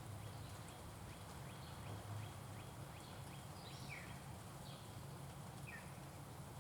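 Small birds chirping: many short, high chips, scattered and overlapping, over a steady low hum.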